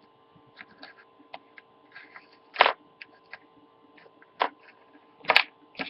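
Small plastic Littlest Pet Shop toy figure's feet tapped on a surface to make it walk: light, irregular clicks and taps, with three louder taps about two and a half, four and a half and five and a half seconds in.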